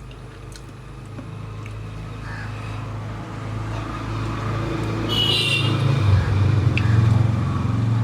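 Low engine rumble of a motor vehicle, growing steadily louder, with a brief high-pitched squeal about five seconds in.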